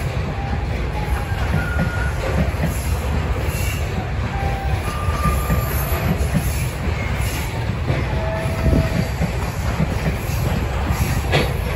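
Freight train of loaded flatcars rolling past: a steady low rumble of wheels on rail, with short high squeals from the wheels now and then.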